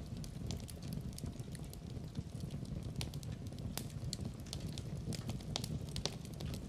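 Fire burning in a fireplace: frequent, irregular sharp crackles and pops over a steady low rumble of the flames.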